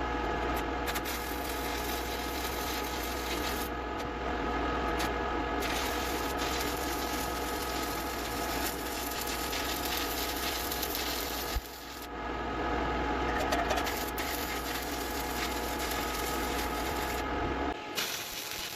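Stick (shielded metal arc) welding arc crackling steadily, with a brief break about two-thirds of the way through where the arc stops and is struck again.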